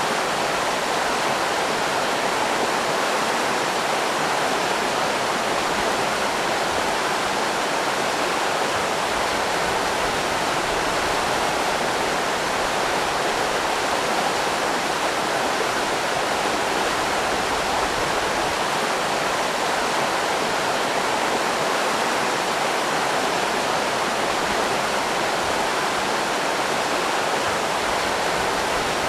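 River rapids rushing over rocks, a steady, even roar of water that does not change.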